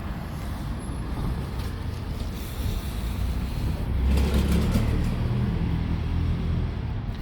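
A motor vehicle's engine rumbling; it grows louder about four seconds in, then eases off, as a vehicle passes close by.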